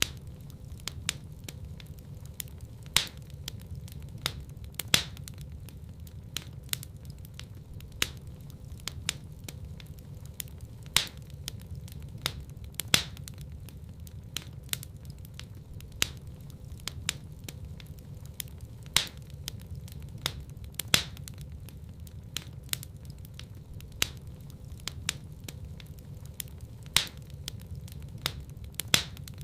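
Wood fire in a fireplace crackling, with frequent sharp pops and snaps over a low steady rumble; the loudest pops come in pairs about two seconds apart.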